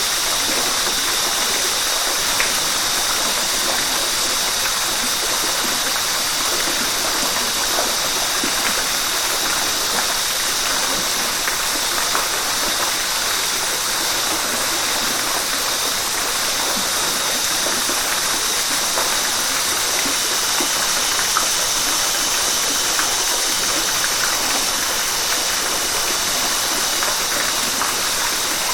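River water rushing steadily, an even rush without a break.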